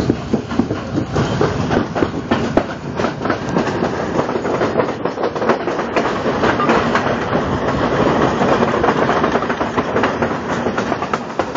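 Passenger train running at speed, heard from a carriage window: a steady rumble with the frequent clicking and clattering of steel wheels over the rail joints.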